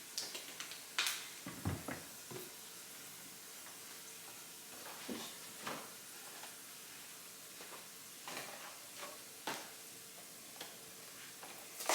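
Food containers and packaging being handled while clearing out a refrigerator: scattered knocks, clicks and rustles at irregular moments over a steady faint hiss.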